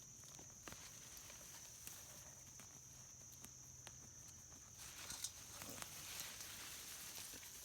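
Quiet outdoor scene of hand digging in garden soil: soft scattered clicks and rustles, a little busier about five seconds in, over a steady high-pitched hum.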